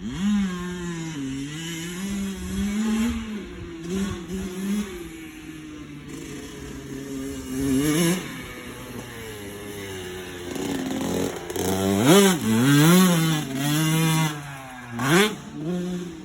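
Dirt bike engine running, its pitch rising and falling with the throttle. It revs up sharply about eight, twelve and fifteen seconds in.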